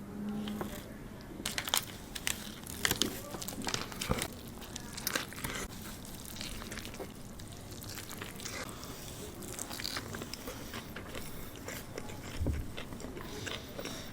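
Close-miked eating: a person biting into and chewing food. There are crisp crunching clicks, most in the first few seconds, then steadier chewing.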